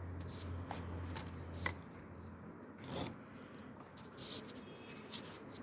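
Handling noises of scrapes, light taps and rustling while a camera or phone is set up. A low steady hum stops about two seconds in.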